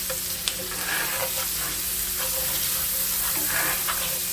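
Chopped onions and celery sizzling steadily in melted butter in a frying pan as they soften toward translucent.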